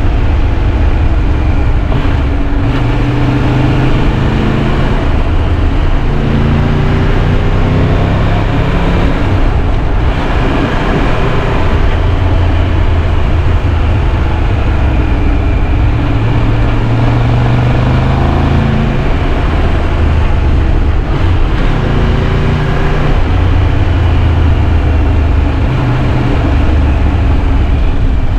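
Triumph Tiger 1200 Rally Pro's three-cylinder engine running at speed, its pitch rising and falling repeatedly as the revs change, under heavy wind rumble on the microphone.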